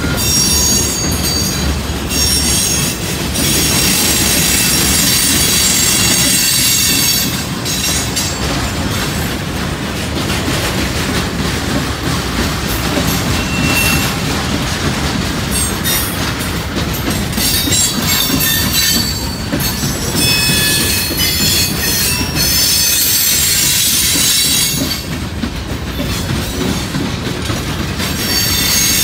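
Freight train cars rolling past at close range, wheels clattering on the rails. High-pitched wheel squeal comes and goes several times.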